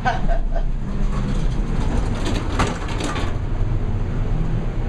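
Gemco elevator's car and two-speed door operator running with a steady low rumble, with a few sharper clunks about two and a half to three seconds in. The door operator is rough.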